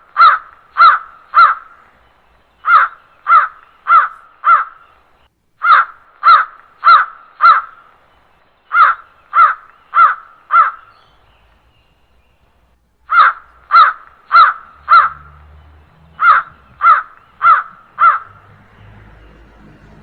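A crow cawing loudly in series of four harsh caws, about two a second, each series followed by a pause of a second or two, with a longer break just before the middle.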